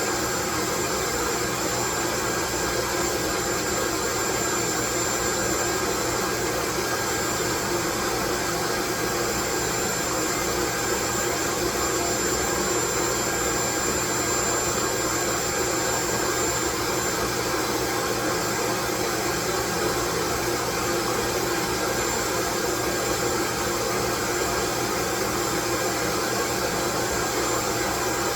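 Steady white noise: an even, unchanging rushing hiss with a faint high whine over it.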